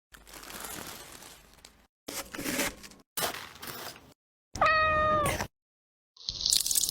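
A domestic cat gives one drawn-out meow about two-thirds of the way through, between short bursts of hissy noise.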